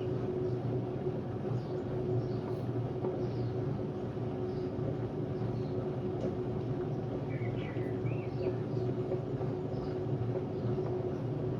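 Hotpoint Ultima WMD960 washing machine running on a spin, a steady drone with a constant whine over it; the noisy spin is put down by the owner to bad drum bearings. A bird chirps a few times near the middle.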